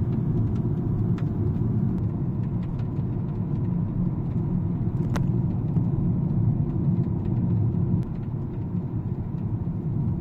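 Cabin of a new Mercedes-Benz A-Class driving on a city road: steady road and engine rumble with scattered small clicks and rattles, and one sharper click about five seconds in. The owner takes these for abnormal noises, a fault in the new car.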